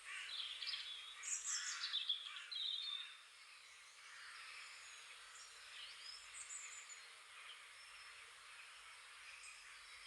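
Songbirds singing: a loud run of quick chirps and falling trills over the first three seconds, then fainter scattered calls over a steady outdoor hiss.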